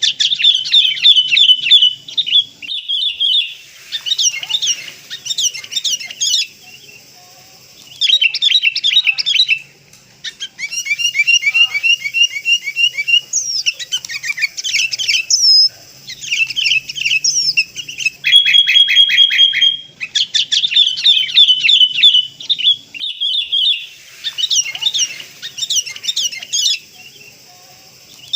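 Sooty-headed bulbul calls: bursts of quick chirping notes, each lasting a second or two, repeated with short pauses between them, and now and then a single held whistle.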